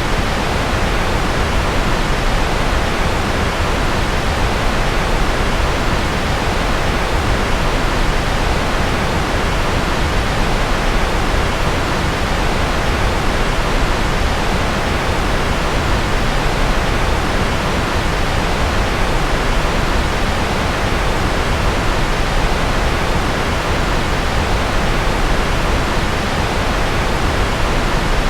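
Steady, unchanging rushing noise with its weight in the low end, thinning toward the top: a sleep-aid noise track billed as rocket noise.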